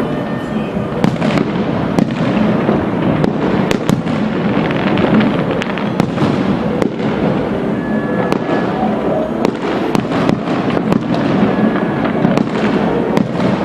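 Aerial fireworks display going off continuously: a dense, unbroken string of bangs and crackles, many sharp reports coming close together over a steady rumbling wash.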